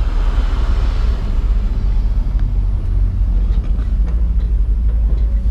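Vehicle engine running, a steady low rumble with a few faint clicks.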